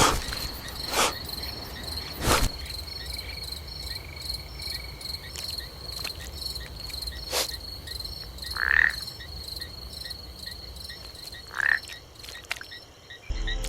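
Chorus of frogs and insects: a steady high trill with evenly repeating chirps. It is broken by a few sharp knocks and by two short, falling calls, about 9 and 12 seconds in.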